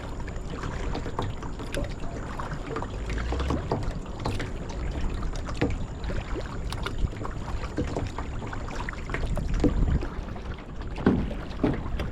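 Water splashing and trickling around a kayak as it is paddled, with many small irregular splashes and drips.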